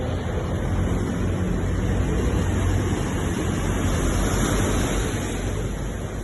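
Ocean surf: a steady wash of waves with a low rumble, swelling a little in the middle and easing near the end.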